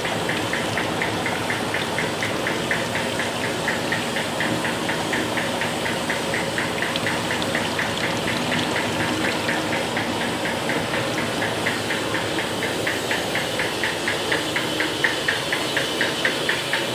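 Plastic drinking-straw making machine running steadily, with an even mechanical ticking about three to four times a second over its motor noise.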